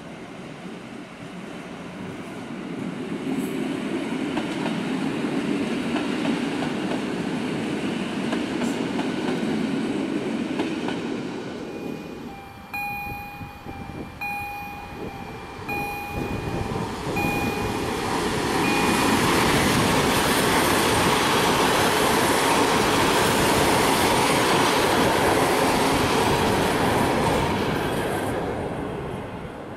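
Trains running on the line. An electric multiple unit rumbles steadily for the first ten seconds or so. After that comes a string of five short high beeps, about one and a half seconds apart. From about nineteen seconds in, a train passes close by, loud with wheels clattering on the rails, and the sound fades near the end.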